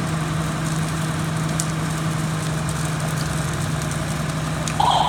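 A vehicle engine idling steadily with an even low hum. A louder sound cuts in just before the end.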